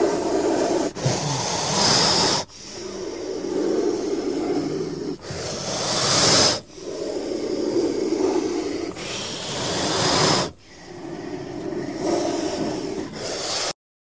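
Cobra hissing: a run of about five long, breathy hisses with short pauses between them, cutting off abruptly near the end.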